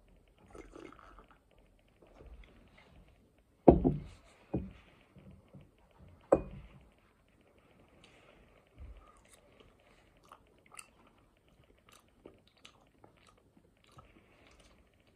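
A person chewing tortellini, with soft wet mouth sounds throughout. A few sharp knocks break in: the loudest about four seconds in, another shortly after, and one a little after six seconds.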